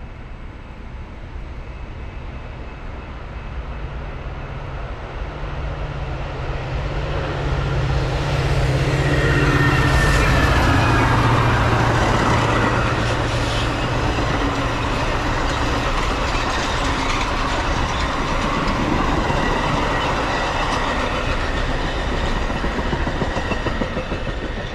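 Metra commuter train passing at speed: the diesel locomotive's drone builds to its loudest about ten seconds in, then the passenger cars roll steadily past and the sound eases near the end.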